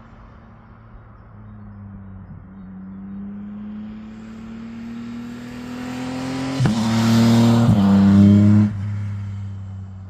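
Yamaha CP3 inline-triple motorcycle with a Spark exhaust accelerating past, its pitch rising as it approaches, with two quick upshifts about two-thirds of the way through. It is loudest as it passes, then drops off suddenly and fades away.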